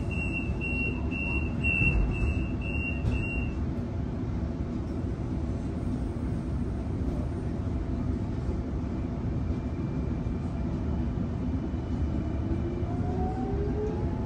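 Sydney Trains Millennium (M set) electric train: a high warning beep about twice a second, typical of the door-closing warning, stops about three seconds in, leaving the steady hum of the carriage. Near the end a rising whine sets in as the traction motors take power and the train pulls away.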